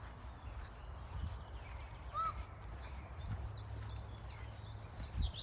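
Small birds chirping in short, high, downward-sweeping notes, once about a second in and in a quick run near the end, over a steady low rumble.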